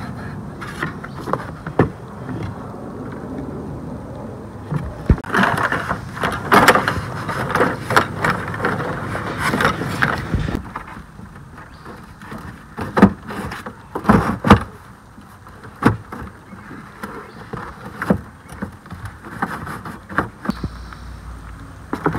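Irregular knocks, clicks and clattering from handling the parts of a Porta-Bote folding plastic boat during assembly, busiest in the middle, with a run of louder knocks a little later.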